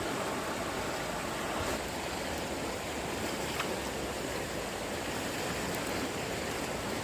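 Floodwater rushing steadily along a stream.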